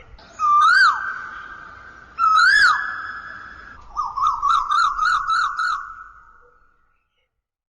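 Bird-like whistled calls: two single swooping notes, each starting suddenly and ringing on as it fades, then a quick run of about seven warbles, about four a second, fading out.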